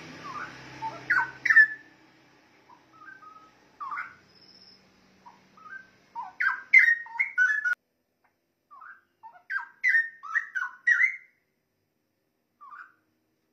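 Straw-headed bulbul (cucak rowo) singing: short bursts of rich, liquid warbling notes, with pauses of a second or more between the phrases.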